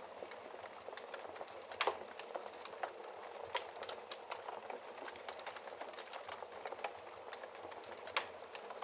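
Wood fire burning in a fireplace, crackling steadily with frequent small snaps and two louder pops, one a little before two seconds in and one near the end.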